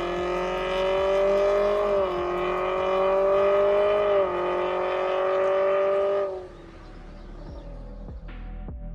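Toyota Corolla Cross 1.8's engine note through an MS-R valved cat-back exhaust under acceleration: the pitch climbs slowly and drops twice, about two and four seconds in, as the gearbox steps up. The engine sound cuts off about six seconds in, and quiet ambient music follows.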